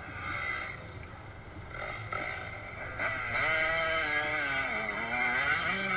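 Dirt bike engine revving, its pitch sliding slowly down and back up, getting louder about three seconds in.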